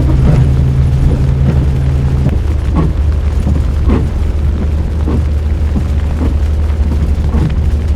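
A vehicle engine running with a steady low drone and a few faint knocks over it; one of its low tones drops away about two seconds in.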